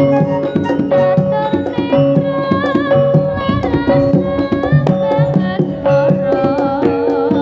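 Instrumental East Javanese jaranan gamelan music: dense kendang hand drumming over sustained metallophone and gong-chime tones, with a wavering melody line on top.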